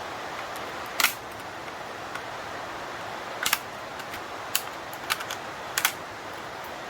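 Steady hiss of rain with a handful of sharp clicks and taps from small parts being handled, the first about a second in and the rest bunched between about three and a half and six seconds.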